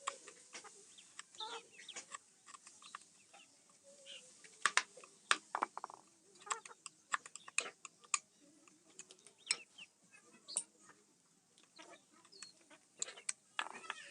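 Irregular sharp taps and clicks of hand carving tools cutting into teak wood, a few strokes a second, with the loudest cluster about a third of the way in.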